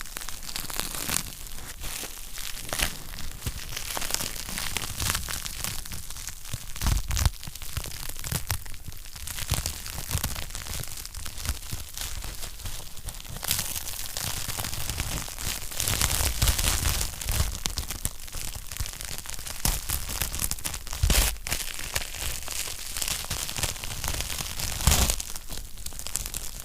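Wood fire crackling in a fireplace: a dense, irregular stream of small crackles, with a louder pop every few seconds.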